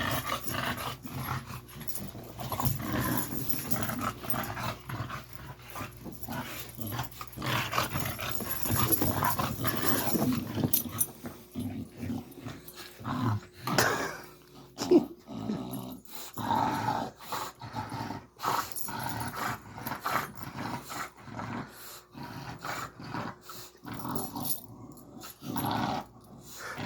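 Dogs growling in rough play, with irregular scuffling knocks throughout.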